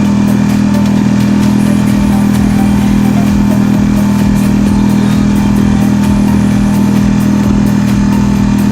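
Marlin 5 hp four-stroke outboard motor running steadily at high throttle with the boat on the plane, one unchanging engine note.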